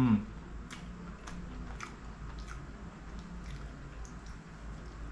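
Close-miked chewing of a mouthful of dosa, with scattered wet clicks and smacks of the mouth. Right at the start there is a short hummed "mmm", falling in pitch, which is the loudest sound.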